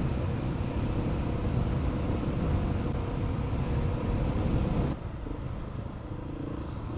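Motorcycle engine running under way with wind and tyre rush on a dirt track. About five seconds in, the sound drops and goes quieter and duller as the bike eases off.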